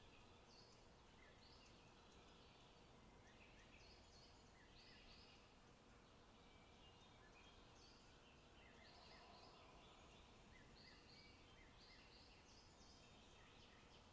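Faint forest birdsong: small birds calling with many short, high notes throughout, over a low steady background hiss.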